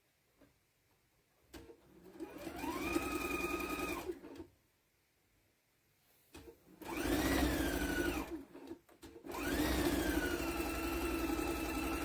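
Electric sewing machine stitching in three runs, about two seconds long, then one and a half, then three, with short pauses between. In each run the motor whine rises as it speeds up, holds steady, then drops away as it stops.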